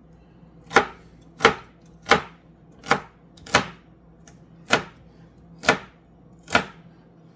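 Knife chopping celery on a cutting board: eight separate strokes, about one a second.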